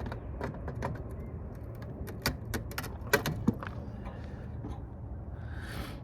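Scattered clicks and taps of a hand tool working on a circuit board as an IC chip is taken off it, the sharpest about two and three seconds in, with a brief rustle near the end.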